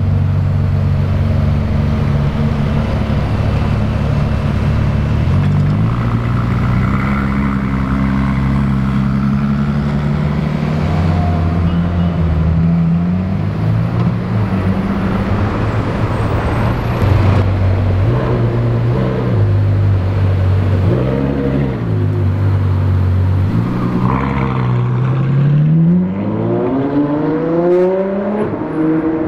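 High-performance supercar engine running, its pitch stepping up and down with the throttle through most of the stretch. Near the end it revs up in a long rising climb as the car accelerates.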